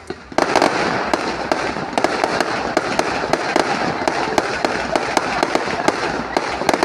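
Aerial fireworks bursting: about half a second in, a dense barrage starts, with sharp bangs several times a second over continuous crackling.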